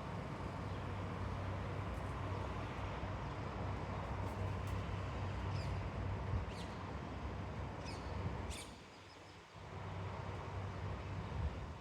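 Birds giving short, high chirps here and there over a steady low rumble. The rumble drops away for about a second around nine seconds in.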